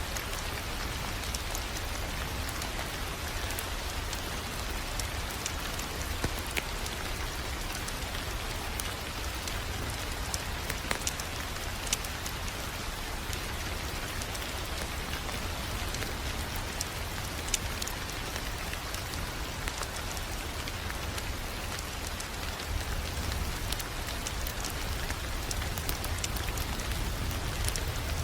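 Wood fire crackling in a fireplace: a steady hiss with scattered sharp pops and snaps over a low rumble.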